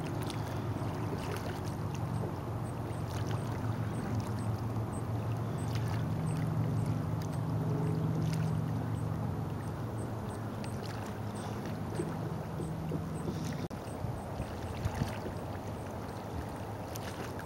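Lake water sloshing and lapping close to the microphone, with scattered small splashes and clicks. A steady low rumble runs underneath and stops abruptly about 14 seconds in.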